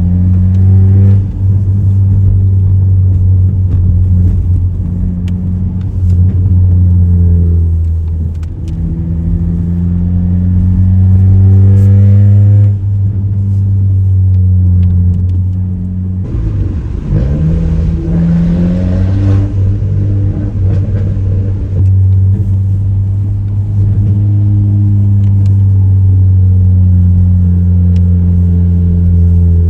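Straight-piped Audi A3 8P exhaust, with the muffler and resonator deleted, droning loudly while the car is driven. The engine note climbs in pitch as the car accelerates, once about a third of the way in and again just past halfway after a brief drop.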